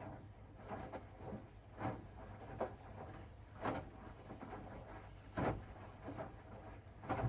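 Hoover DXOA610AHFN-80 front-loading washing machine in its wash phase: the drum turning over a steady low motor hum, with the wet laundry falling and swishing inside in irregular thuds about every second, the loudest a little past halfway.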